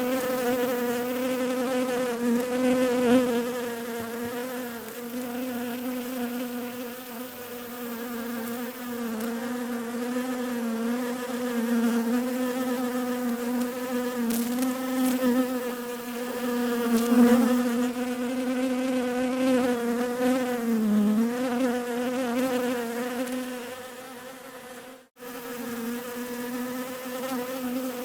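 Bees buzzing: a steady pitched hum that wavers slightly in pitch. It dips lower about three-quarters of the way through and cuts out for a moment near the end.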